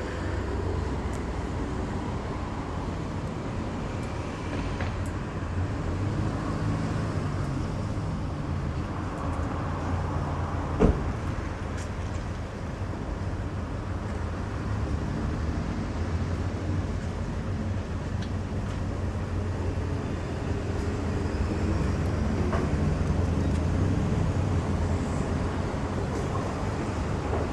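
Steady low rumble of road traffic, with one sharp click about eleven seconds in.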